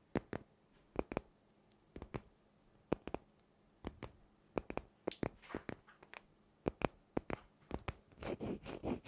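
Irregular sharp taps and clicks on a hard object, then a short stretch of scratching near the end.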